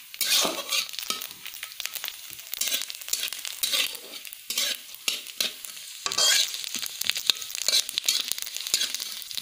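Chopped dry fruit frying in hot refined oil in a pan, sizzling steadily, while a spoon stirs and scrapes it in quick, repeated strokes as it browns.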